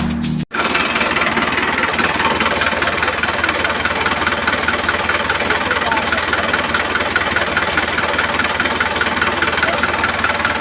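An engine running steadily with a fast, even knocking beat. It starts abruptly about half a second in, as music cuts off.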